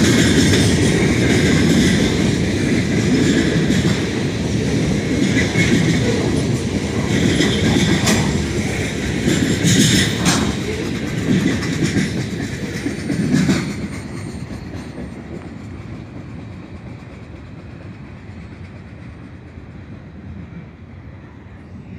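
Freight train cars rolling past a grade crossing: a steady rumble of wheels with clickety-clack and several sharp knocks over the rail joints. About fourteen seconds in, the last cars go by and the sound fades as the train moves away.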